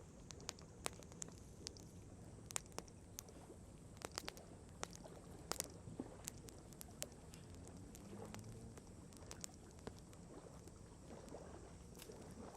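Wood campfire crackling, with irregular sharp pops and snaps a few times a second over a faint steady low background.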